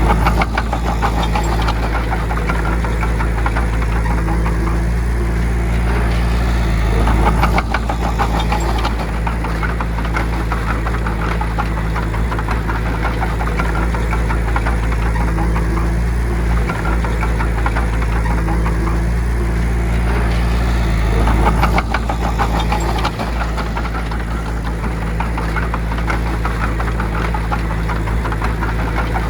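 Heavy diesel engine of earthmoving machinery running steadily with an even firing beat, surging louder briefly about seven seconds in and again about twenty-one seconds in.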